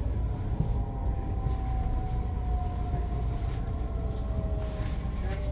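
Electric suburban train heard from inside the passenger car: a steady low rumble of the running train, with a single motor whine sliding slowly down in pitch as the train slows.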